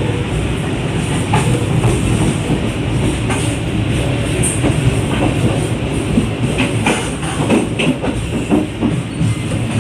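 Passenger train carriage running along the track, heard from the open vestibule between carriages: a steady loud rumble of wheels on rails with irregular clacks and knocks, more of them in the second half.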